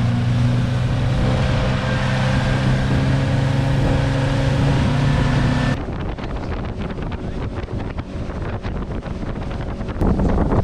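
Small motorboat's outboard motor running steadily at cruising speed. About halfway through it gives way suddenly to wind buffeting and rushing water, and the motor's note comes back near the end.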